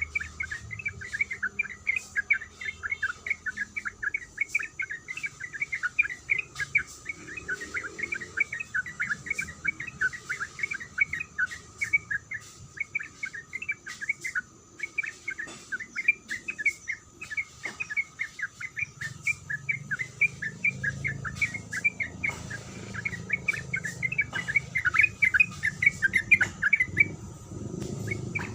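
Sooty-headed bulbul (trucuk) calling in a long, fast, unbroken run of short chattering "kuik" notes, several a second.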